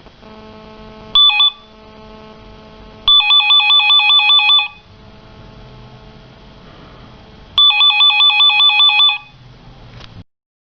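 Electronic telephone ringer warbling rapidly between two tones: a brief chirp about a second in, then two long rings about four and a half seconds apart. A faint steady hum runs underneath between the rings.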